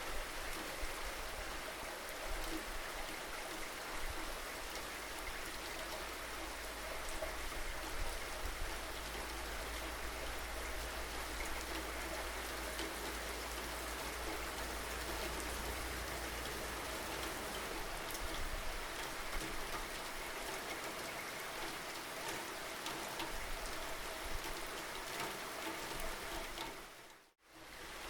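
Steady rain falling, with scattered drops tapping on a surface over an even hiss and a low, steady rumble underneath. About a second before the end the sound dips out sharply to silence for a moment, then comes back.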